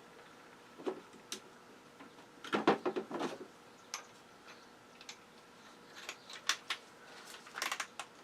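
Scattered light clicks and clatters from small metal parts and tools being handled, in irregular groups, with no drill running.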